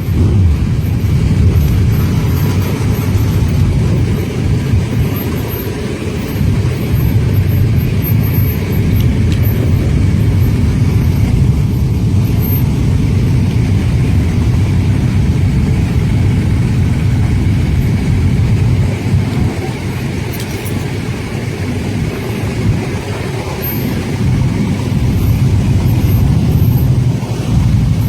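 Motorcycle engines running with a steady low rumble, easing slightly a few times and picking up again near the end.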